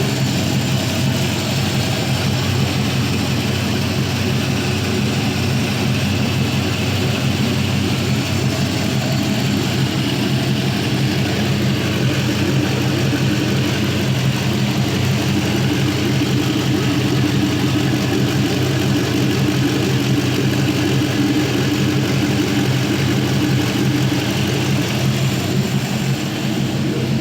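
Gen III 4.8L LR4 LS V8 idling steadily on an engine run stand, still warming up and short of its normal operating temperature.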